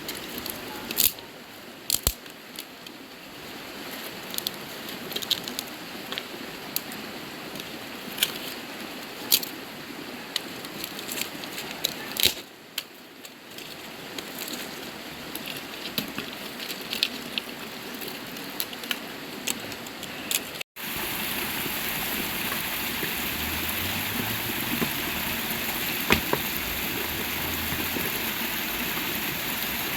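Scattered sharp crackles and pops over a steady hiss of running water. About two-thirds of the way through, a cut brings in a louder, even hiss.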